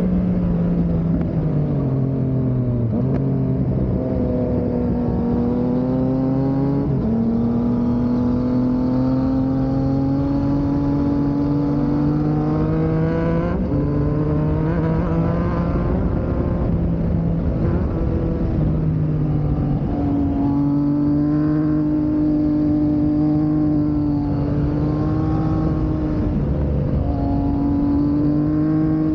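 Yamaha MT-series motorcycle engine under load on a climb. Its note climbs steadily, then drops back about half a dozen times as the throttle is eased and opened again.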